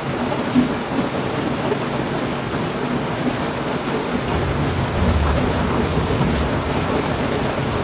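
Steady heavy rain, with a low rumble of thunder swelling up about four seconds in and fading a couple of seconds later.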